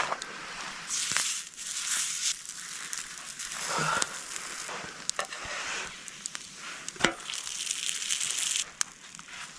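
Food sizzling on a hot griddle over a campfire, the hiss rising and falling in swells, with sharp crackles and clicks and one louder knock about seven seconds in.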